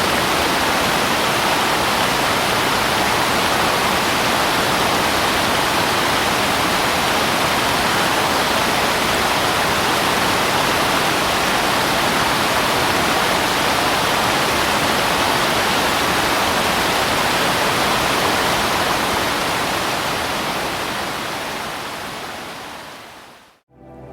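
Waterfall water falling in a steady, even rush that fades out over the last few seconds.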